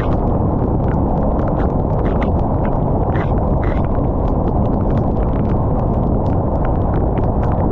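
Rain falling, with scattered drops ticking irregularly close by over a steady low rush.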